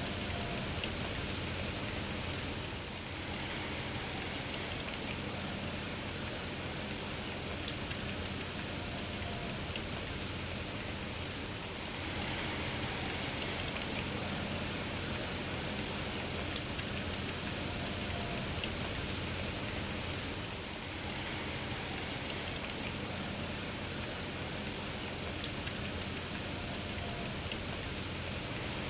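Steady rain falling and pattering on surfaces. A single sharp tick stands out about every nine seconds, three times in all.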